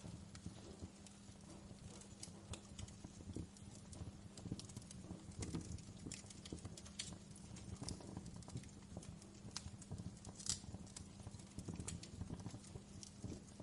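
Wood fire crackling in a fireplace: irregular small pops and snaps over a low steady rumble, with one louder snap about ten seconds in.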